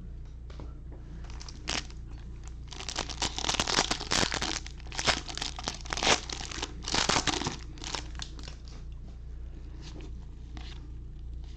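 Foil wrapper of a trading-card pack being torn open and crinkled, a dense run of crackles loudest in the middle and thinning out near the end, over a steady low hum.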